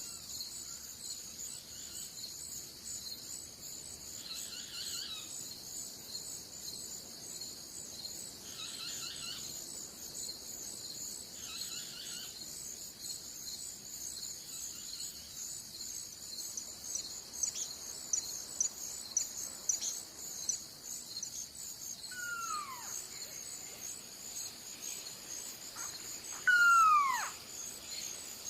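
Steady high-pitched chorus of insects chirring, with a few soft bird chirps in the first half. Twice near the end a bird gives a whistled call that slides down in pitch, the second one louder.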